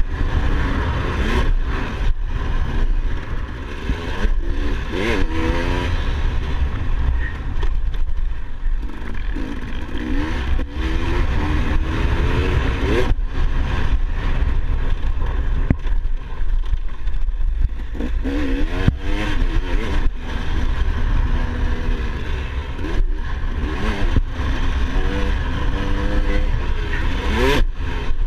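Dirt bike engine revving up and falling back again and again as the bike is ridden. Under it runs a heavy low rumble, and sharp knocks and rattles come often.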